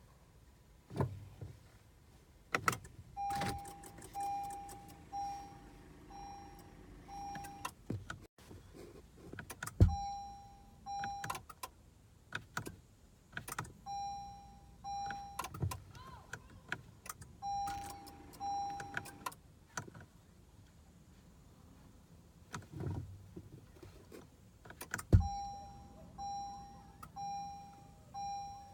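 A 2015 Acura TLX's electronic warning chime beeping in runs of two to five tones about a second apart, between sharp clicks and knocks from the cabin controls; no starter cranking is heard, as the car, with its electrical fault that is not the battery, fails to crank.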